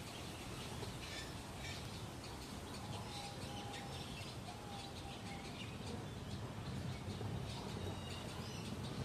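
Small birds chirping and calling: many short, high chirps scattered throughout, with a few short, steady whistled notes at a lower pitch, over steady background noise.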